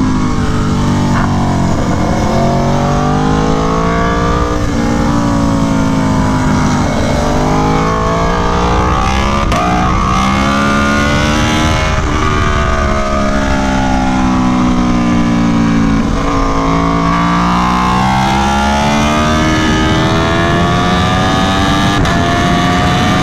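Aprilia Tuono V4 1100 Factory's V4 engine through an SC Project CR-T exhaust, ridden hard on track. Its pitch climbs under acceleration, drops sharply and climbs again, then falls away as the bike slows, several times over.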